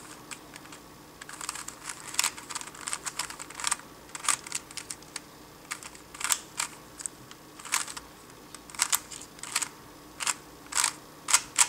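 3x3 speed cube being turned with fingertricks: a run of sharp plastic clicks and clacks as the layers snap round, irregularly spaced, with a quick flurry near the end.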